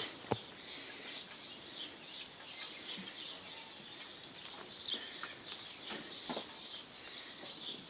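Faint farmyard background with birds chirping in the distance and a few scattered light clicks and knocks, one sharper click just after the start.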